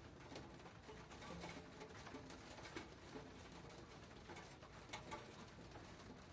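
Faint, light rain falling, an even patter with scattered sharper drop ticks. Short, low cooing calls come in now and then.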